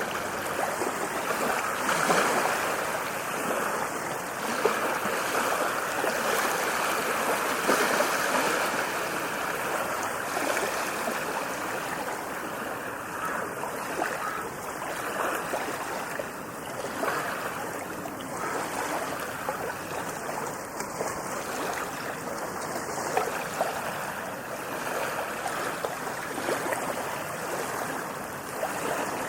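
Ocean waves breaking and washing up a beach, a continuous surf wash that swells and eases.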